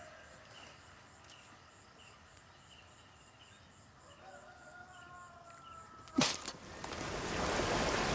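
Faint outdoor ambience with scattered bird calls. About six seconds in there is a sharp knock, then a steady rushing noise builds louder.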